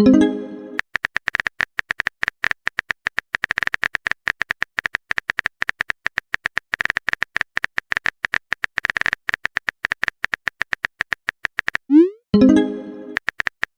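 Electronic typing-tick sound effect: rapid, slightly uneven ticks, about eight a second, each with a high beep-like tone. Near the end the ticks break for a rising swoop and a short chime, a message-sent sound, before the ticking resumes.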